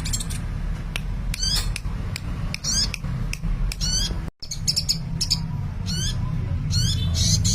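Sunbird (Indonesian 'kolibri') singing a rapid series of short, high chirps, each a quick sweeping trill, over a steady low hum. The sound cuts out for a moment about four seconds in.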